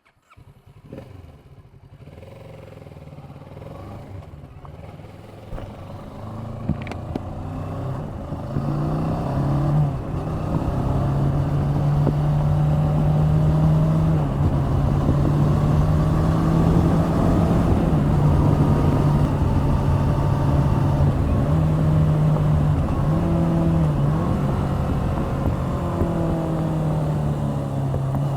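Kawasaki Z650's liquid-cooled 649 cc parallel-twin engine under way on the road. It starts quiet and grows louder over the first ten seconds, then runs steadily at speed, with the pitch dipping briefly a few times in the second half.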